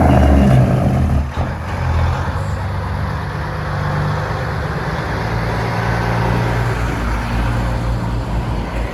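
Semi-truck diesel engines running low and steady as big rigs roll slowly past.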